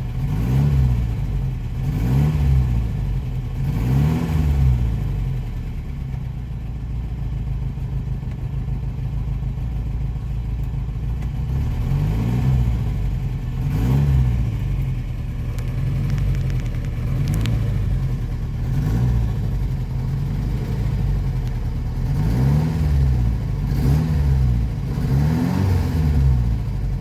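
Lancia Fulvia Coupé's V4 engine idling and being revved in short throttle blips, each rising and falling in pitch. There are three blips in the first few seconds, then steady idling, then several more blips in the second half.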